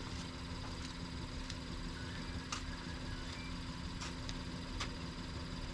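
A steady low mechanical hum with a few faint, sharp ticks scattered irregularly through it.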